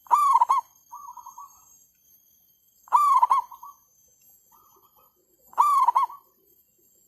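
Zebra doves (merbuk) cooing: three loud coos about two and a half seconds apart, with softer rolling, stuttering coos between them, as one bird answers another.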